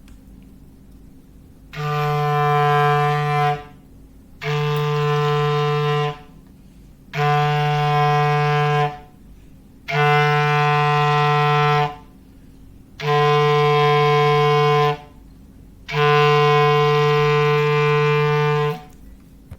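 Foghorn sound effect: six long blasts of one steady pitch, each about two seconds, with short gaps between them.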